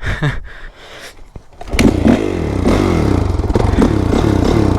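Honda CRF450R's single-cylinder four-stroke engine kick-started: clattering and scraping, then the engine fires about two seconds in and keeps running, its revs rising and falling with blips of the throttle.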